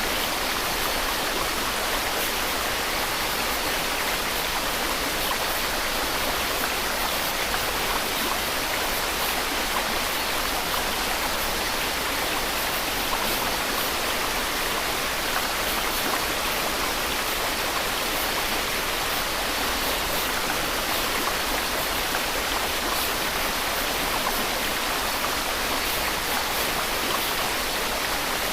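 Continuous white noise: an even, steady hiss that does not change.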